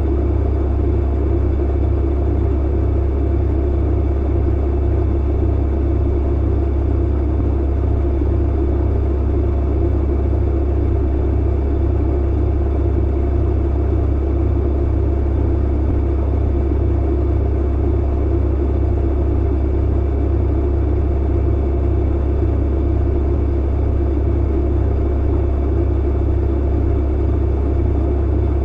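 Clothes dryer running with a steady, unchanging low hum.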